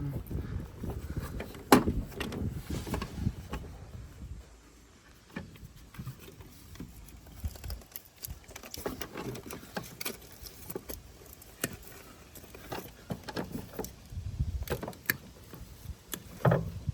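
Hand tools and parts being handled while working on a car: irregular clicks, taps and light clanks, with heavier rummaging noise at the start and near the end.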